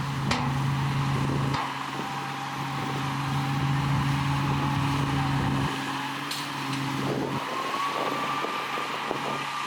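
Heavy diesel earthmoving machinery running. A deep, steady engine note drops away about six seconds in, and a higher whine with a clattering rattle takes over.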